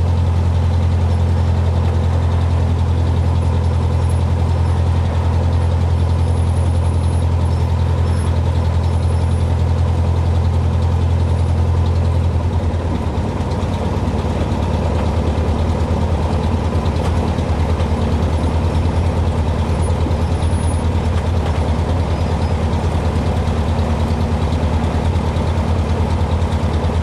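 Cessna 150's Continental O-200 four-cylinder engine and propeller running steadily. About halfway through, the deep engine drone weakens and its tone changes, then carries on steady.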